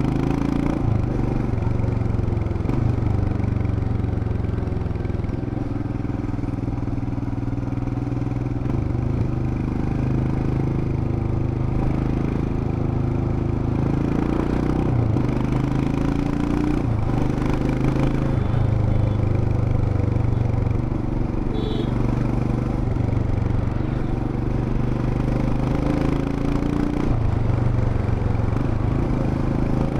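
Royal Enfield Himalayan BS6's 411 cc single-cylinder engine and exhaust running under way, the engine note rising and falling several times as the revs change.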